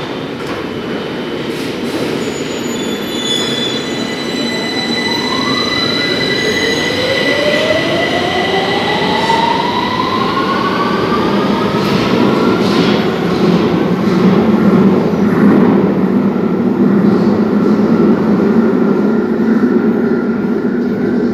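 London Underground Victoria line train (2009 Tube Stock) accelerating, its traction motors whining in several tones that rise steadily in pitch over a steady rumble of wheels on rail, with some wheel squeal.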